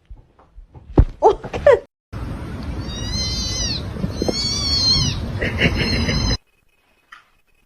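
Cat meowing: a few short calls about a second in, then two long, arching meows over a steady background hiss that cuts off suddenly near the end.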